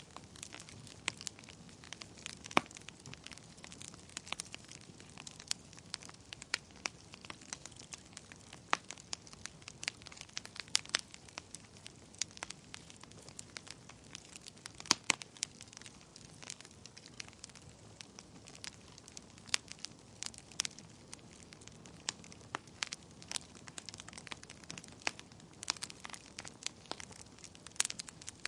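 Wood fire in a fireplace crackling steadily, with irregular sharp pops and snaps over a soft hiss of flames.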